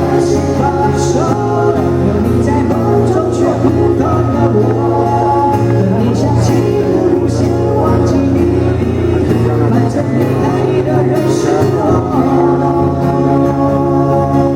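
Live band playing a slow pop ballad: a steady bass and sustained chords under a wavering lead melody line.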